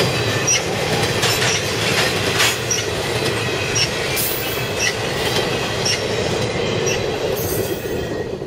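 Intermodal freight cars carrying highway trailers rolling past close by. A steady rumble of wheels on rail is broken by clicks and short, high wheel squeaks about once a second. The sound drops away suddenly near the end.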